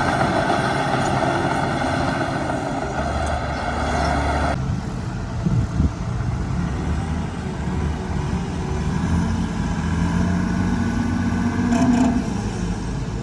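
Heavy diesel earthmoving machinery running under load, loud throughout. A harsh, noisy engine sound stops abruptly about four and a half seconds in and gives way to a deeper engine note that climbs in pitch near the end, as the engine revs up.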